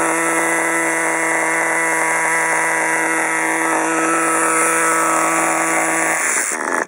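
Small glow-fuel (nitro) engine of a Redcat RC truck running at a steady high idle: an even, buzzing pitch. About six seconds in the steady pitch drops away into rougher noise, and the sound cuts off near the end.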